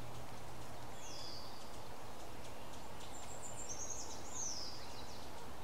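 Small birds calling over steady background noise: one short downward-sliding call about a second in, then a quick run of high chirps between about three and a half and five seconds.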